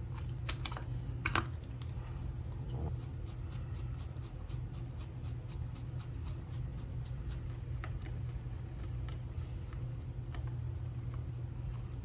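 Small metal parts and tools clicking and tapping as a gearbox is handled and assembled by hand, with two sharper clicks in the first second and a half, over a steady low hum.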